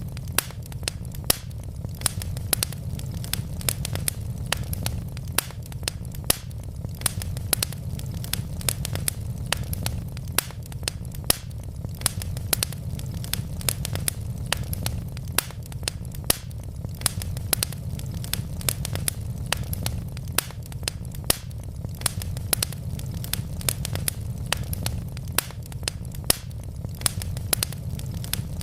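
Wood fire burning in a fireplace, crackling steadily with frequent irregular sharp pops and snaps over a constant low rumble of the flames.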